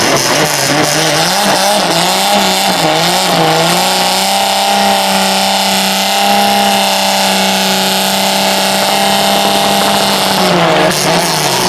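Dodge Polara race car's engine running at high revs, its pitch wavering up and down over the first few seconds, then held steady for several seconds before dropping near the end.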